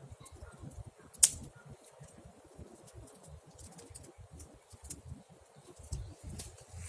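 Wood campfire crackling with scattered sharp pops, one loud pop about a second in, over a low uneven rumble.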